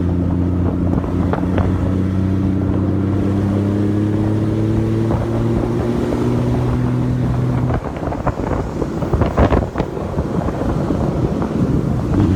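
Honda Valkyrie's flat-six engine running under light throttle, its note creeping slowly upward in pitch. About eight seconds in the engine note drops away and gusty wind noise on the microphone takes over.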